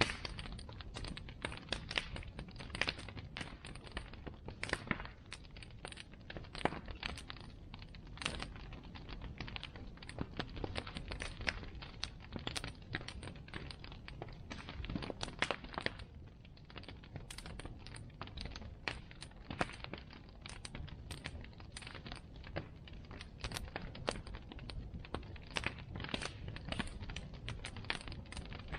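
Wood bonfire crackling, with irregular sharp pops and snaps, several a second, over a low steady rumble of the flames.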